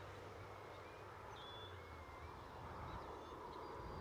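Faint outdoor ambience: a steady low hiss with a few faint, short bird chirps in the first couple of seconds.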